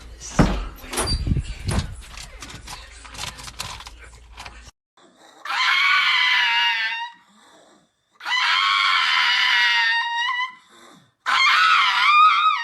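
A dog screaming in three long, high-pitched wailing cries, each lasting about a second and a half, wavering and dropping in pitch at the end. They start about five seconds in, after a few seconds of knocks and rustling.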